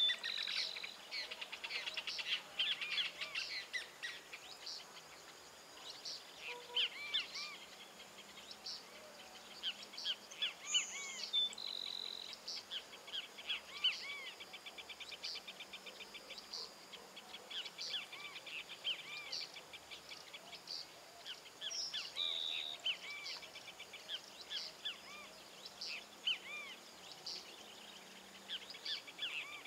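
Several wild birds singing and calling: a steady stream of high chirps and quick rapid-fire trills, with a few short, clear whistled notes now and then.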